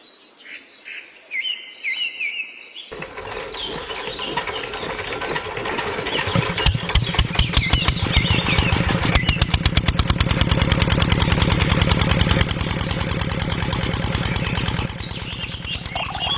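Birds chirping, then a machine starts up about three seconds in and runs with a fast, even pulsing that grows louder over the next few seconds, like a small engine.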